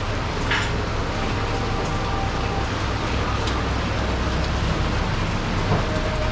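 Steady hiss of rain and wet-road traffic, with a low rumble underneath and a few faint ticks.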